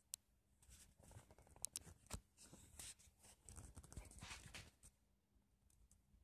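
Faint scattered clicks and rustling, with one sharper click about two seconds in.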